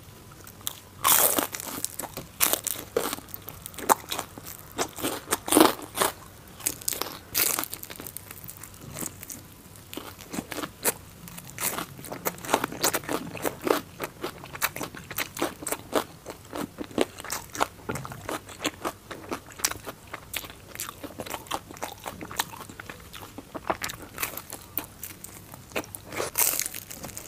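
Close-up crunching bites and chewing of crispy deep-fried food, a breaded pork cutlet and fried skewers. There are many quick, sharp crackles throughout, with the loudest bites in the first several seconds.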